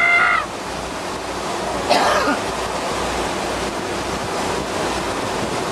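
Steady rushing noise of the sea and wind around a fishing boat at sea, with one short burst of sound about two seconds in.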